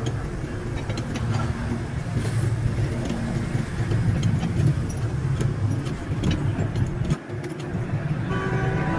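A motor vehicle engine running with a steady low rumble, with scattered light clicks. A pitched tone sets in near the end.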